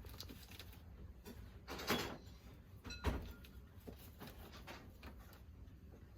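Quiet room with a low hum, scattered soft clicks and rustles, and two louder knocks about two and three seconds in.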